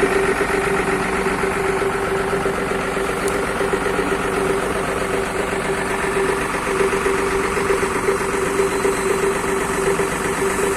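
Bus engine idling steadily through a newly fitted aftermarket 'wolf' exhaust, giving a loud, even hum with a strong steady drone.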